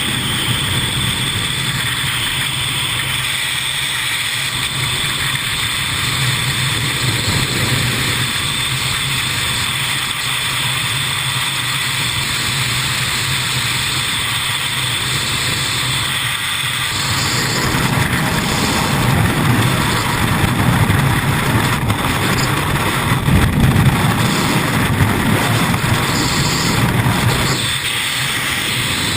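Steady engine drone with a low hum, growing louder and rougher from a bit past halfway and easing near the end.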